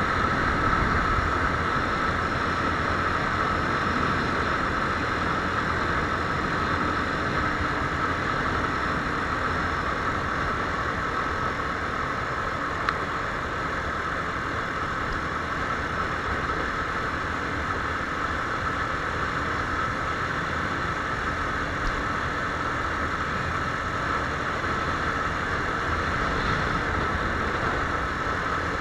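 Viper R2 motorcycle engine running steadily.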